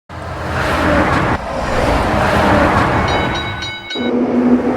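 Train running with a steady rushing rumble. About three seconds in comes a short run of high ringing tones, and near the end a steady low hum.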